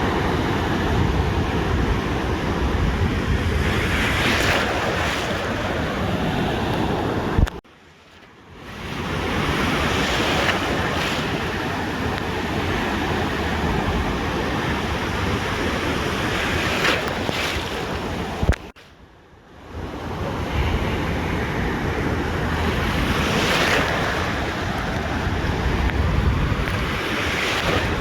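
Ocean surf washing onto a beach, a steady roar with swells as waves break, with wind rumbling on the microphone. The sound cuts out abruptly twice, each time after a click, and fades back up a second or so later.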